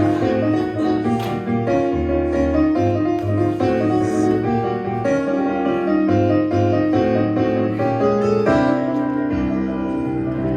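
Piano accompaniment playing an instrumental passage, chords over a moving bass line, with no singing.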